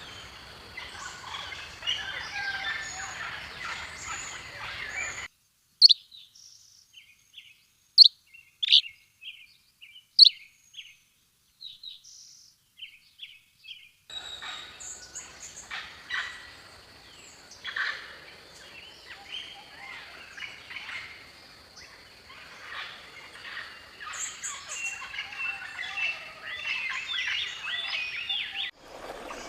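Birds calling and singing in recordings cut together. A busy chorus of chirps cuts out suddenly at about five seconds and gives way to loud, sharp, separate calls with silence between them. At about fourteen seconds another busy chorus comes in, with rapid runs of notes near the end.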